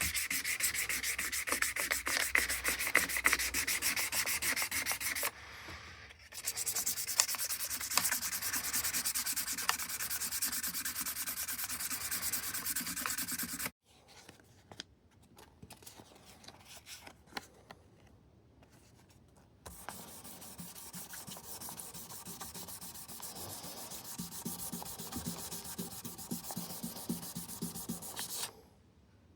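Frets of a Martin D16 acoustic guitar being sanded level with rapid back-and-forth strokes. There are two loud spells of sanding with a brief gap between them, then several seconds of near quiet with a few small clicks, then softer, quieter rubbing.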